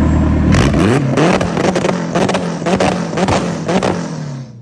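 Turbocharged K24-swapped four-cylinder car engine accelerating hard in a wide-open-throttle gear pull, its pitch rising steadily, with repeated rattling bursts over it; the sound drops away sharply near the end.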